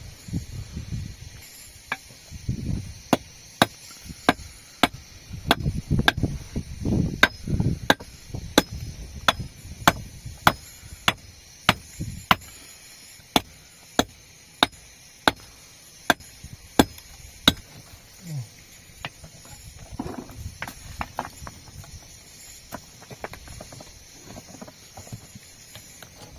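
A steady run of sharp hand-tool blows, about two a second, for some fifteen seconds, then a few lighter, scattered knocks.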